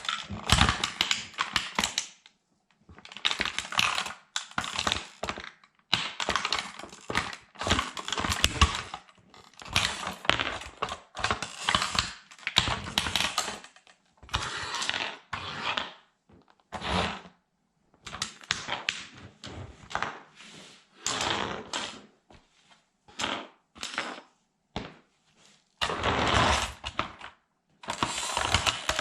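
Plastic toy military truck cracking and crunching under a sandal sole. The sound comes in bursts of rapid clicking snaps, each a second or two long, with gaps of silence between them.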